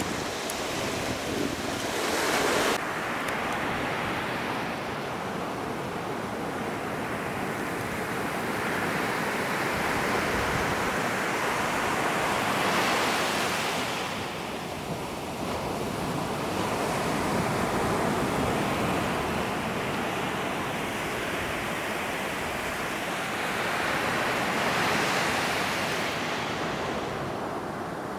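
Ocean surf breaking and washing up the beach, a steady rush that swells louder about three times, with wind on the microphone.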